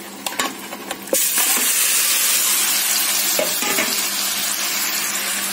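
Marinated chicken pieces tipped into hot oil in a steel pot: a few light knocks of bowl and spoon, then about a second in the meat hits the oil and a loud, steady sizzle of frying starts.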